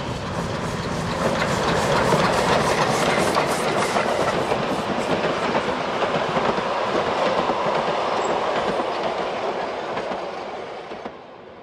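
Narrow-gauge passenger train hauled by a W-class steam locomotive rolling past close by, the carriage wheels clicking over the rail joints. The sound fades away near the end as the train draws off.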